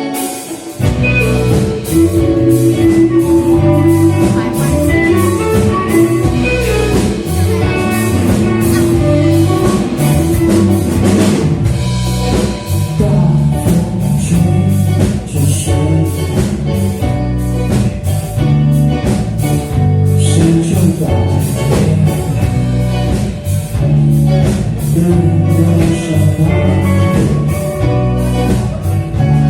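Live band playing a rock song: a drum kit keeping a steady beat under guitar and bass, with singing. The full band comes in about a second in.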